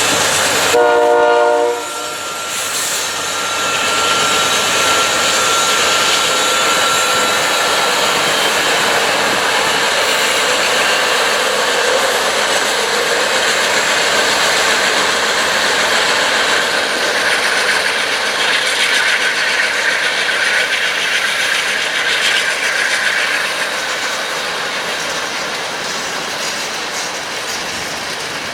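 Freight train locomotive horn sounds one short blast about a second in, then the train's cars roll past with steady wheel clatter on the rails.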